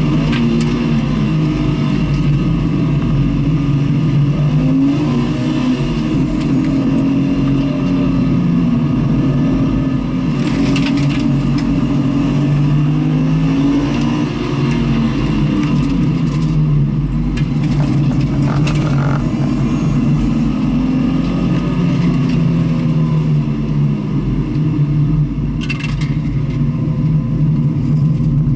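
Engine heard onboard while lapping a short race circuit, its pitch rising and falling repeatedly as the driver accelerates and lifts through the corners.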